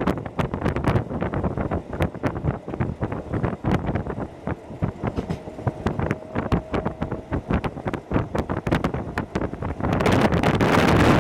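Hokuso Railway 7260 series electric train running at speed, heard from inside: a steady rush of wheel and rail noise, rattling, and wind buffeting the microphone. A brief steady tone rises out of it about midway, and the rush swells louder near the end.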